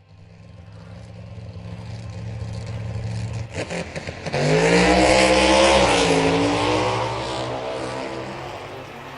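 A car engine builds up, revs higher about four seconds in, is loudest midway, then drops in pitch and fades away, like a car revving and driving past.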